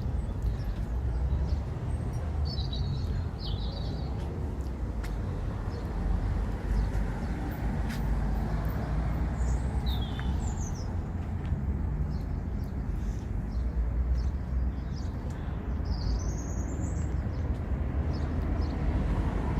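Small birds chirping in short bursts, about three times, over a steady low outdoor rumble.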